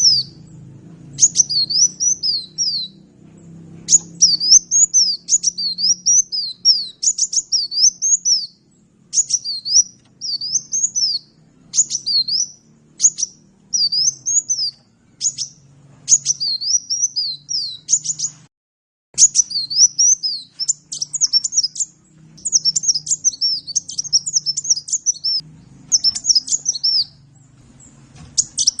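Sunbird singing: rapid, high twittering phrases of quick up-and-down notes, repeated in bursts with short pauses, over a faint low hum.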